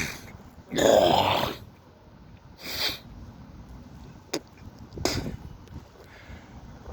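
A man's breath sounds between sentences: a loud breath about a second in and a shorter, hissier breath near three seconds, with a couple of small clicks later.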